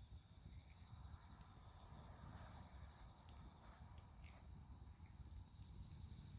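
Dry firewood burning: a low rumble of flames with scattered soft crackles, and two brief high hisses, one about two seconds in and one near the end.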